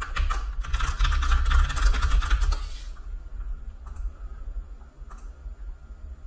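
Computer keyboard typed rapidly for about three seconds, then a couple of single key or mouse clicks.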